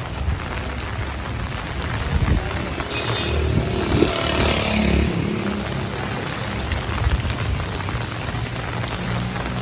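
Heavy rain falling steadily. Midway a vehicle passes on the wet road, its tyre hiss swelling and fading over a few seconds.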